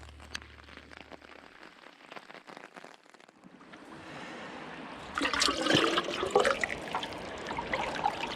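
Running stream water, faint at first, swelling in and growing much louder about five seconds in. A low hum fades out in the first two seconds.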